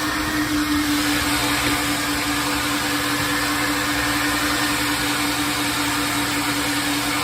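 Coin-operated car wash vacuum running steadily: a constant motor whine over a loud rush of suction air.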